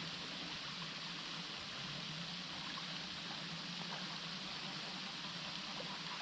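Steady rushing of a forest stream, an even hiss with no breaks.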